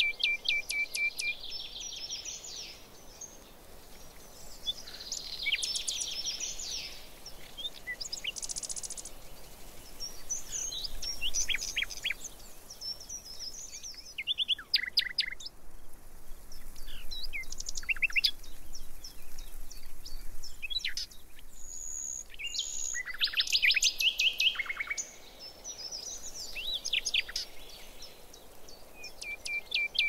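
Several birds singing and calling, overlapping: quick chirps, fast trills and short runs of high notes come and go all through, over a faint steady background hiss.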